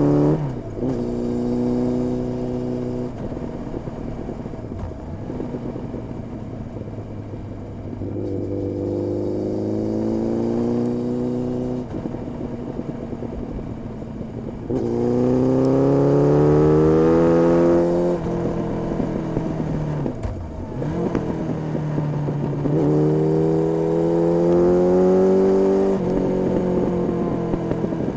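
Honda CB1300S inline-four through an Ixrace aftermarket exhaust while riding: the exhaust note climbs under acceleration, breaks off at each gear change, and falls back when the throttle is rolled off, several times over. The loudest, longest pull comes about halfway through.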